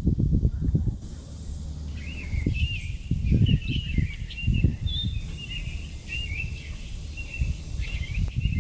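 Forest songbirds chirping and twittering in quick, high, warbling phrases that start about two seconds in and cut off suddenly at the end, over low, irregular rumbling.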